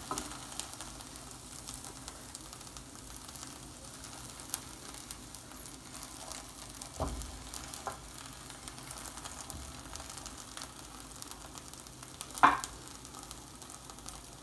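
Chicken pieces and chopped onions sizzling in a hot nonstick frying pan, a steady crackle of frying. A few short knocks come as the pieces are set down in the pan, with one louder knock near the end.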